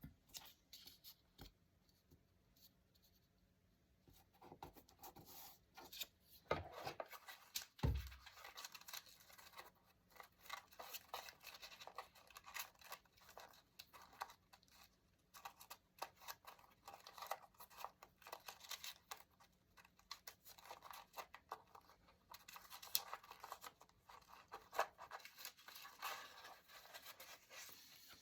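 Scissors cutting paper in runs of short crisp snips, with paper scraping and rustling; one soft thump about eight seconds in.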